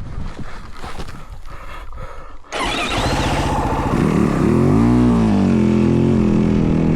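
Yamaha WR450F dirt bike's single-cylinder four-stroke engine. It is choppy and quieter at first, then about two and a half seconds in the throttle opens sharply; the revs climb and fall back, and the engine then holds steady.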